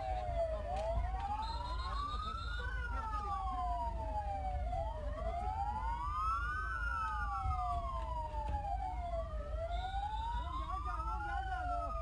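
Emergency-vehicle sirens wailing, two of them overlapping out of step, each slowly rising and falling in pitch about every four to five seconds, over a steady low rumble.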